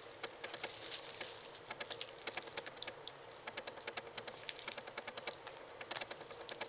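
Quick, irregular scratching and clicking from a lilac bicolor Ragdoll kitten clawing and biting at a wand toy, tearing at it.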